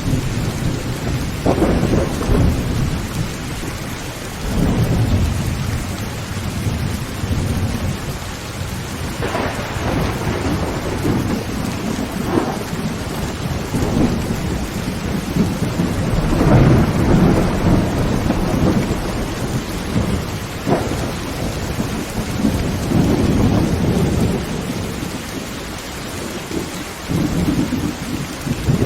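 Heavy rain drumming steadily on a tin tent roof, with thunder rumbling and crackling repeatedly over it.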